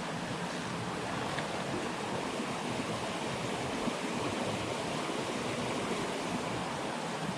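Fast-flowing stream water running steadily.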